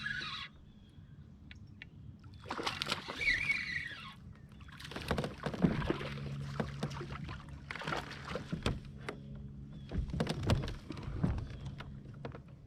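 Kayak paddling: a paddle dipping and splashing in the water in strokes about every two and a half seconds, with light knocks against the hull.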